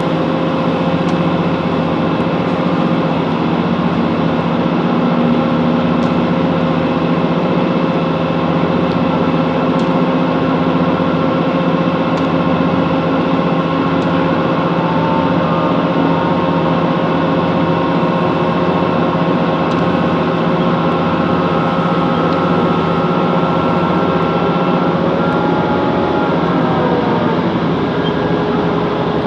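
Class 165 Networker Turbo diesel multiple unit running along the line: steady engine and wheel rumble with a set of whining tones. Near the end the whine drops in pitch and settles lower.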